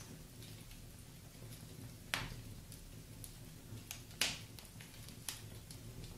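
Wood fire burning in a fireplace with a low steady rumble and scattered crackles and pops, three sharper pops about two, four and five seconds in.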